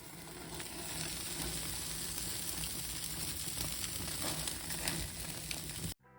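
Pork belly (samgyeopsal) sizzling over a wood fire: a steady frying hiss with small scattered pops of spitting fat. It cuts off suddenly near the end.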